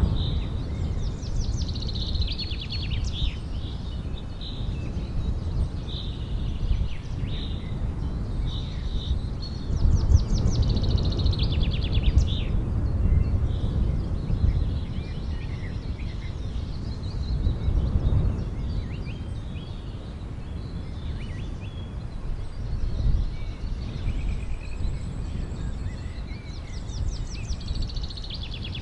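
Small birds chirping, with repeated quick trills, over a steady low rumble.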